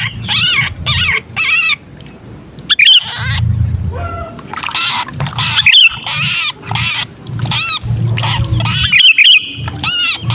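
Sooty-headed bulbul distress calls, the harsh squawking of a bulbul caught and pinched, used as a lure call: loud runs of short arched notes, several a second, broken by brief gaps, over a low rough hum.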